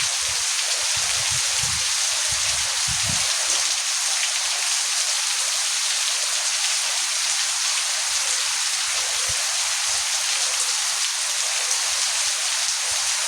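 Heavy monsoon rain falling steadily, a dense, even hiss, with some low rumbling in the first few seconds.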